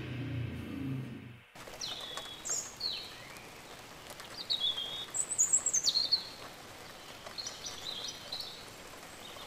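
Background music ends abruptly about a second and a half in, then birds chirp in short scattered calls over a faint steady outdoor hiss.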